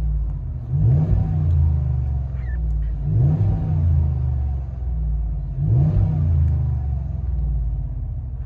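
Ram 1500 5.7L HEMI V8 with a Borla Pro XS muffler and factory resonators, heard from inside the cab while driving: a low, deep exhaust note that climbs in pitch three times as the truck accelerates.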